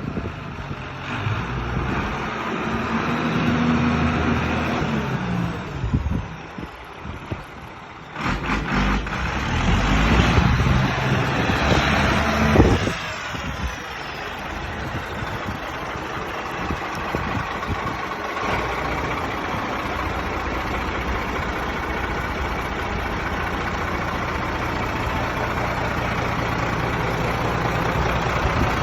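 Ford 8210 Series 3 tractor's six-cylinder turbo diesel engine running. Its pitch and loudness rise and fall in the first half, and a louder stretch cuts off suddenly about halfway through. It then settles into a steady idle.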